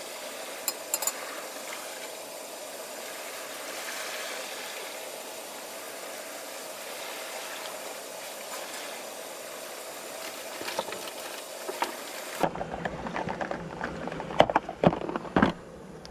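Steady hiss of rain falling, with a few sharp clicks about a second in. Near the end the sound changes abruptly to a low rumble with several loud knocks.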